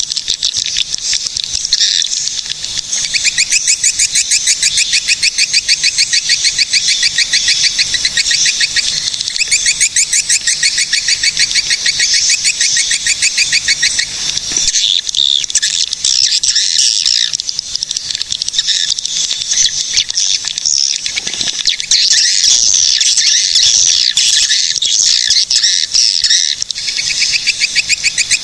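Swiftlets calling: rapid, buzzy chittering trills from several birds overlapping, going on without a break.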